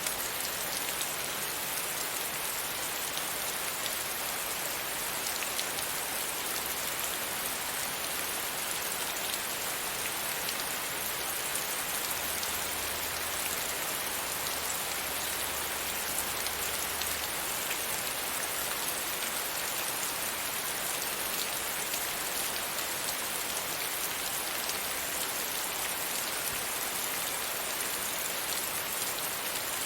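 Steady rain pattering against a window pane, a dense even hiss with many small drop ticks.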